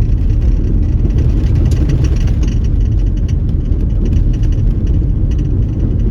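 Road noise inside a moving car on a dusty unpaved road: a steady low rumble from the tyres, with scattered ticks and rattles throughout.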